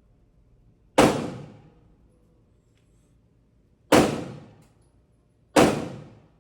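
Three single gunshots, the second about three seconds after the first and the third a second and a half later, each with an echoing tail that dies away over about half a second.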